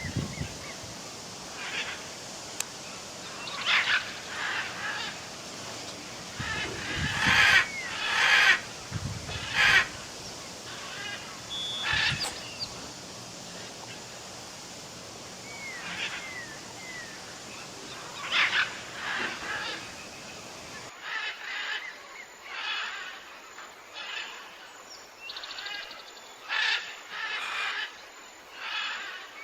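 Waterfowl calling in short bursts every second or few, with a few thin, brief chirps among them. The background noise drops abruptly about two-thirds of the way through.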